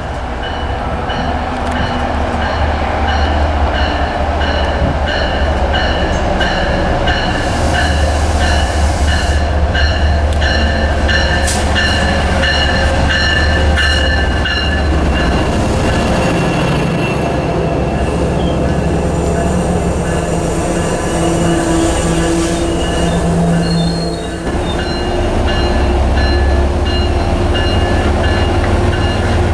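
A train passing on the rails, loud and steady, with a low rumble under high steady wheel squeal.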